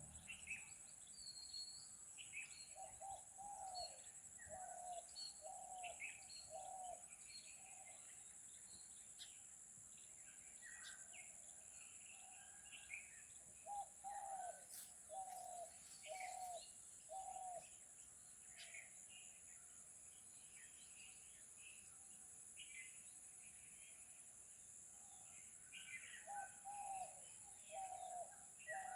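Birds calling: one bird repeats a run of about five short low hooting calls three times, while other birds chirp in higher voices. A steady high-pitched hiss lies beneath them.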